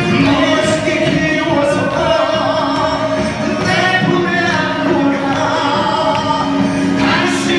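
A singer performing a song over a backing track played from a mobile phone, with long held notes.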